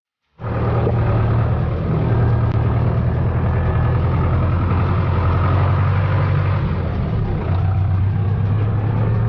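Tractor engine running steadily with a low, even hum, cutting in suddenly about half a second in.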